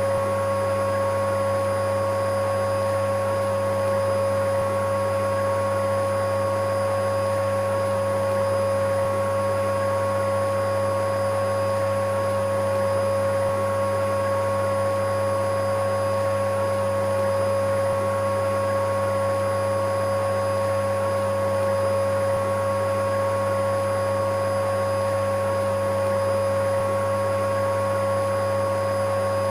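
Electric vacuum cleaner running continuously: a steady motor drone with a constant whine in it, unchanging in pitch and level.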